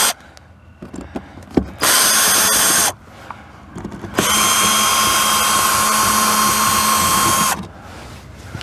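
Power drill running in two bursts, a short one of about a second and then a longer steady run of about three seconds, with a steady motor whine, backing out the screws of an RV furnace's access cover.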